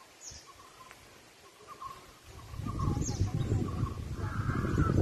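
Birds calling, with short repeated chirps. About two and a half seconds in, a louder, rough low noise comes in, and near the end there is cawing.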